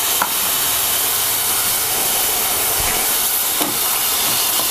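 Fresh tomato purée sizzling in hot oil with spices in a pan, a steady hiss of frying and steam. A few light scrapes of a spatula against the pan come near the end as the masala is stirred.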